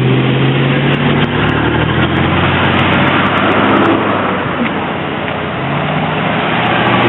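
Street traffic: cars and other vehicles driving past with a steady engine hum and tyre noise, a lower engine tone coming in about two seconds in.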